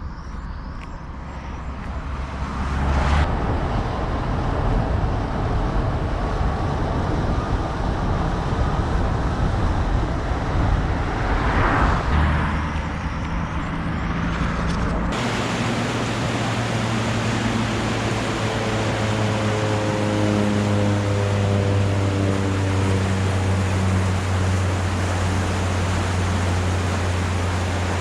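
Road traffic: motor vehicles running on a road bridge, with one vehicle passing about twelve seconds in. From about halfway, a steady low engine hum with tones that shift slowly.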